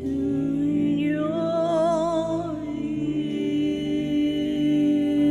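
Slow worship song: a singer holds long notes with vibrato over a sustained instrumental accompaniment.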